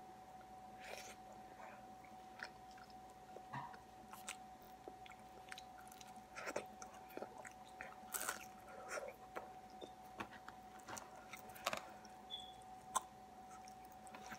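Close-up chewing and biting of an oven-crisped burrito: faint, irregular crunches and wet mouth sounds, with a steady faint hum underneath.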